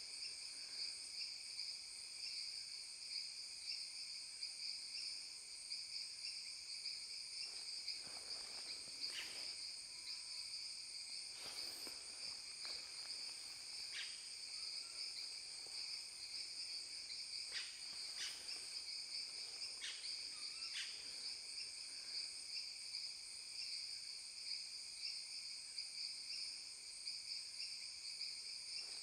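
Steady chorus of insects such as crickets, high-pitched pulsing trills at several pitches layered together. About seven short, sharp chirps or clicks stand out over it through the middle stretch.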